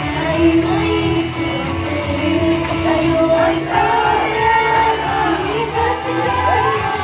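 Live J-pop idol song: female voices singing over a backing track played through a venue's PA, heard in a large room.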